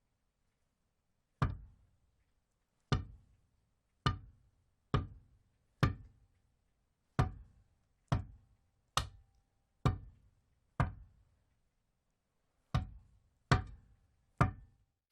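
A hand tool striking something hard in thirteen single, sharp knocks, about one a second at an uneven pace, each dying away quickly.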